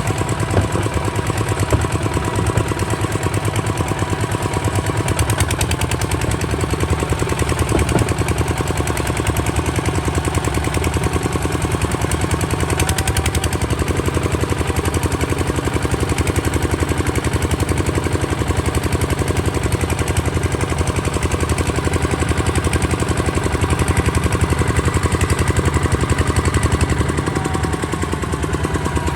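Kubota ZT155 DI single-cylinder diesel engine running steadily, with rapid, even firing beats.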